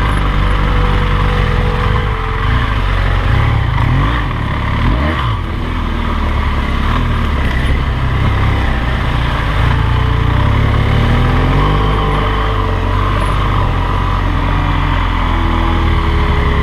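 BMW R 1200 GS LC's boxer-twin engine running while the bike is ridden, with a steady rushing noise over it. The revs dip and pick up again about five seconds in.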